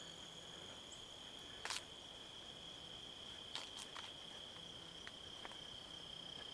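Insects trilling in one steady, high, continuous tone, with a few short clicks of the handheld camera being handled, the loudest about 1.7 seconds in and two close together near the middle.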